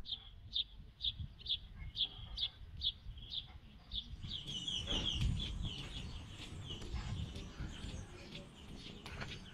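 A small bird calling outdoors: short high chirps repeated about twice a second, then breaking into a quick twittering phrase about halfway through that fades away, over a low rumble.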